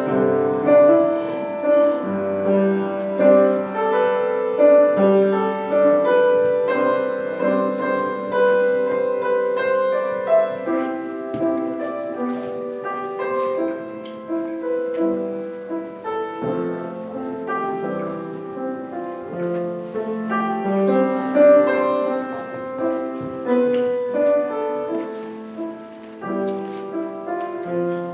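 Piano playing a continuous piece of chords and melody notes.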